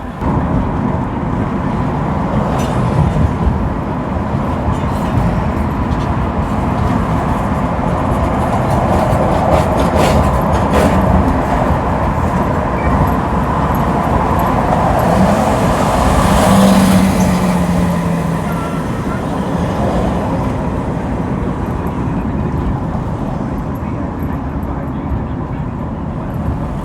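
Road noise of a car driving at highway speed: a steady hum of tyres and engine that swells for a few seconds a little past the middle, with a brief low tone that dips slightly in pitch.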